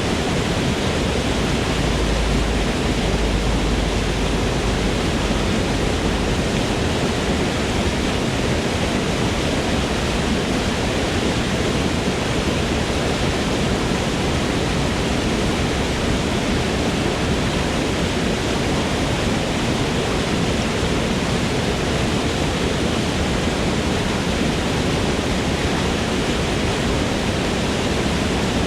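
Waterfall pouring in a forest: a steady, even rush of falling water with no breaks or changes.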